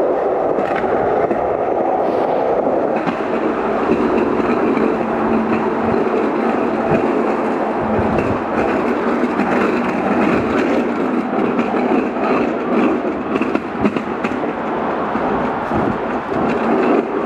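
Skateboard wheels rolling steadily over rough pavement: a continuous rumble with small scattered clicks.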